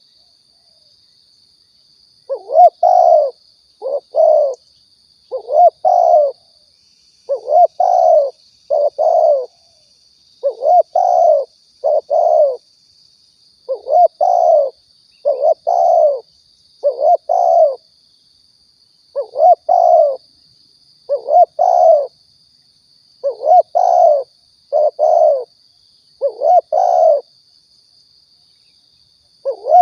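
Spotted dove (tekukur) cooing over and over, a lure call for attracting doves: two-note coos roughly every one to two seconds, with short pauses. A faint steady high whine runs underneath.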